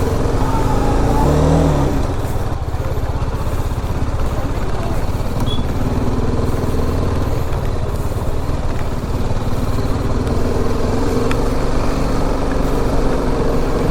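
BMW G 310 RR's single-cylinder engine idling steadily at standstill.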